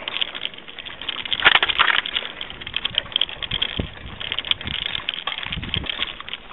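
A bicycle being ridden over a rough road, with irregular rattling and clicking that is busiest about a second and a half in. Low rumbles of wind on the microphone come and go.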